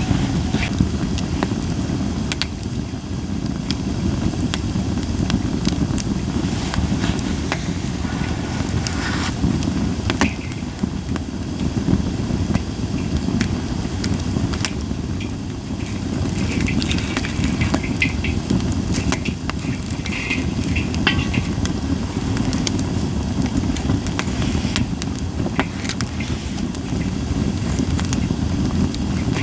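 Japanese white pine firewood burning in a campfire, with frequent sharp crackles and pops and a few brief hisses, over a steady low rumble.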